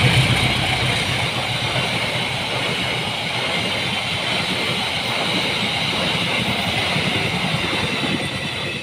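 Train cars rolling past on the rails, a steady loud rush of wheel-on-rail noise that fades near the end.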